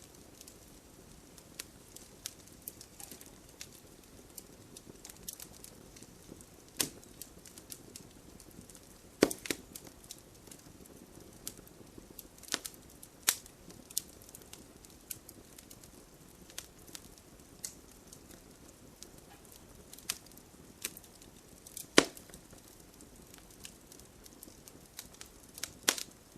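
Wood fire burning in a fireplace: irregular sharp crackles and pops, a few much louder snaps, over a low steady hiss of the flames.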